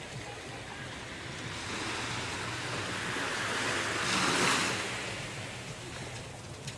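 Surf washing on a beach: a steady hiss of breaking waves that swells as one wave breaks about four seconds in, then falls back.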